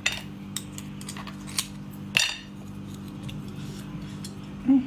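Tableware clinking and knocking against a dish: a handful of separate sharp clicks, the loudest a little over two seconds in with a brief ring.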